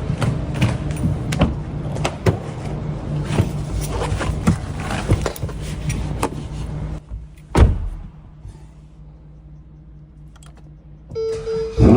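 Clicks and knocks around a Ferrari 812 Competizione over a steady low hum, then a single heavy thump like a car door shutting about seven and a half seconds in. After a few quieter seconds a steady whine starts, and a loud burst comes right at the end as the V12 is cranked for a cold start.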